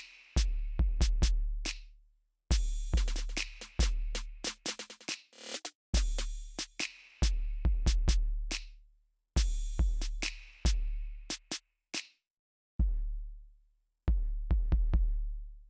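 Drum-machine beat: deep, slowly fading bass kicks with sharp, crisp hits over them, played in short phrases broken by brief silences.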